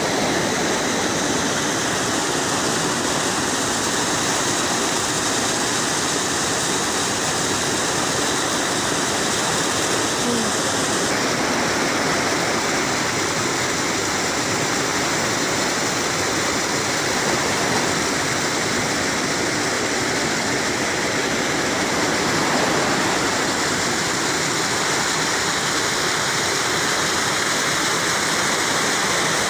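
Waterfall: water pouring and splashing in a steady rush, with a slight change in its hiss about eleven seconds in.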